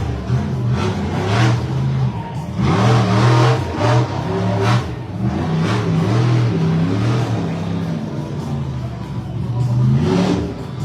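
Monster truck engine revving hard and easing off again and again during a freestyle run, with several sharp bursts over the first few seconds.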